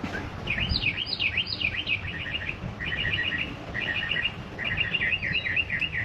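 A songbird singing a varied phrase: a few sharp swooping chirps, then quick runs of short repeated notes, and near the end a series of slurred notes. A low rumble sits underneath.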